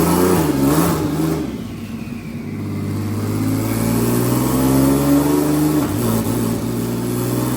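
Twin-turbo VR30 V6 engine in a Nissan 350Z revving. Its pitch goes up and down in the first second or so, drops, then climbs steadily under load, with a brief dip about six seconds in.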